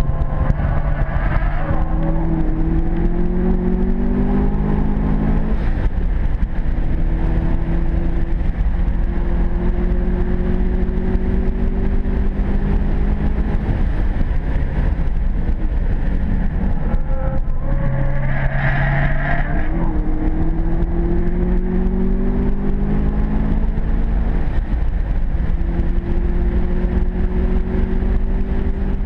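2009 Subaru WRX's turbocharged 2.5-litre flat-four engine under hard acceleration in a five-speed manual, heard from inside the cabin: the engine note climbs several times and drops back at each upshift or lift. A brief rushing noise comes in twice.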